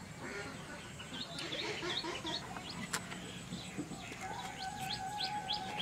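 Small birds chirping repeatedly in quick short calls, with a single sharp clink about three seconds in.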